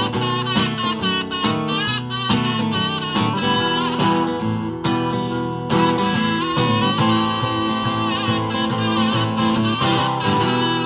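Live instrumental break: acoustic guitar strumming, with a lead melody line wavering in pitch above it.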